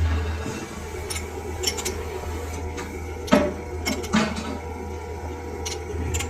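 Metal parts and tools clinking and knocking against each other in a few short separate strikes, the loudest about three seconds in, over a steady low motor hum.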